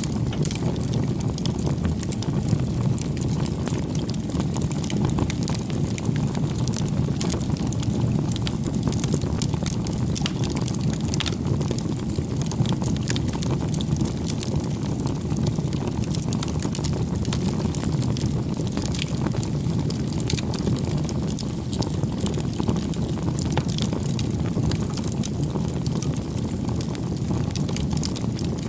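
Wood fire burning, with a dense, irregular crackle of small pops over a steady low rush.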